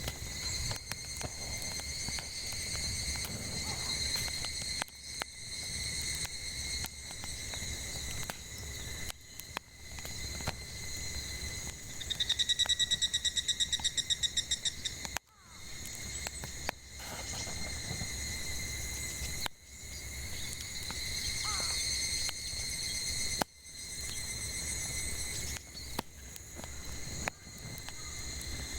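Cicadas droning steadily, with a nearer cicada's louder, fast-pulsing buzz from about twelve to fifteen seconds in. Occasional sharp pops and crackles of burning firewood sound over a low rumble of the fire.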